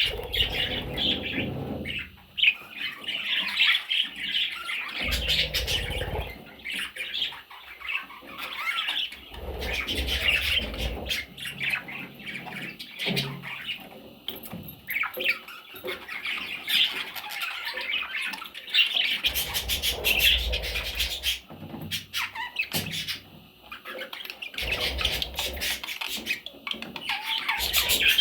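Parrot chicks squawking and chirping continuously in a busy, raspy chorus, broken several times by low rumbling bumps that last a second or two.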